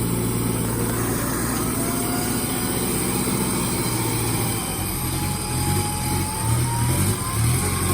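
An off-road vehicle's engine running steadily, its note turning uneven and varying about halfway through as the throttle changes.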